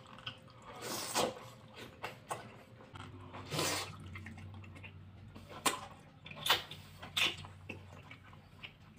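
Eating sounds: a man biting and chewing broth-soaked Korean fish cake off a bamboo skewer, with a series of short wet mouth sounds and one longer slurping noise about three and a half seconds in.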